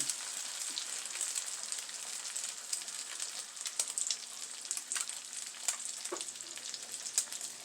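Butter and egg-soaked stuffed French toast frying in a hot pan: a steady sizzle with scattered crackles and pops.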